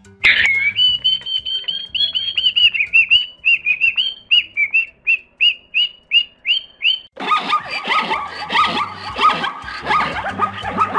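A bird calling a series of short, down-slurred notes that come faster and faster. About seven seconds in, a denser, harsher chattering takes over.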